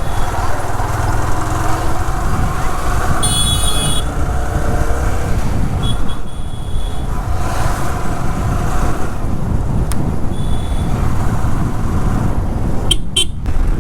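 Road traffic heard from a motorcycle in slow, crowded traffic: engines running under a steady low rumble of wind on the microphone, with short horn toots about three seconds in and again near six and ten seconds.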